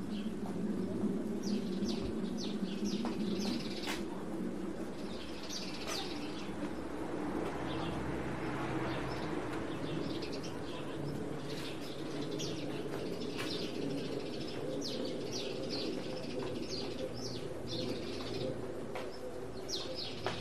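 Small birds chirping in repeated clusters of quick, high notes, over a steady low background hum.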